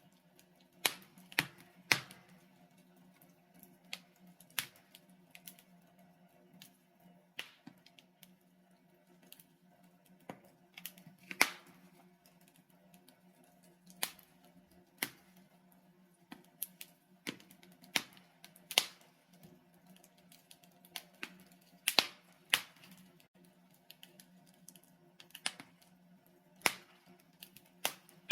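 Logs burning in a fireplace, crackling with sharp irregular pops and snaps, some much louder than others, over a faint low steady hum.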